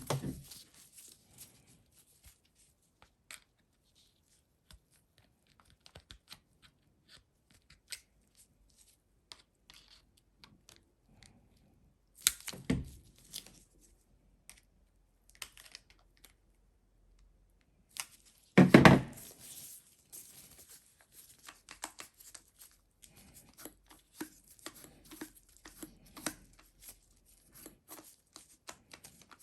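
Hand work on a starter motor on a workbench: scattered faint clicks and taps of parts and tools being handled. Two short, louder scraping, tearing-like noises come about halfway through and again about two-thirds in, the second the loudest.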